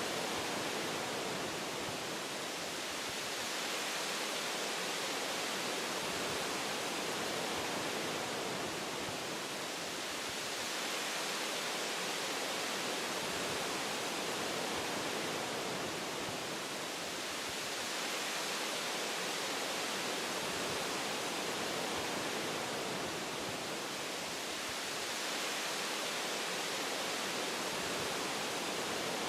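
Wind blowing through forest tree branches: a steady rushing hiss that eases slightly and swells again every several seconds.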